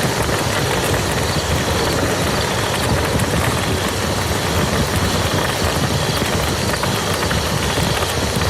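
Steady rain falling on muddy ground: a dense patter of drops over a low rumble.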